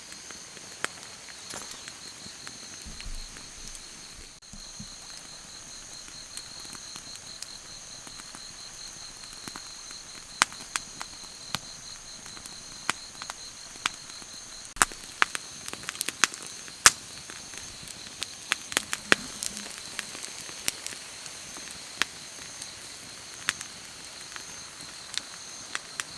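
Wood campfire crackling, with sharp pops at irregular intervals that come more often in the second half. Under it runs a steady high trill of insects.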